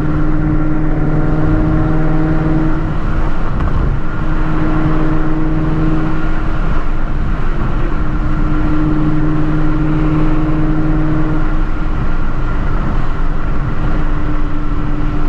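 Procharged Shelby GT350's 5.2-litre flat-plane-crank V8 at a steady highway cruise with road noise. A low drone swells in and out every few seconds, with no revving.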